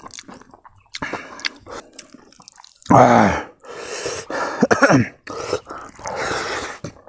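Close-miked eating: wet chewing and lip smacking of a mouthful of smoked pork and rice. Two short vocal sounds fall in pitch, the louder about three seconds in and the other about five seconds in.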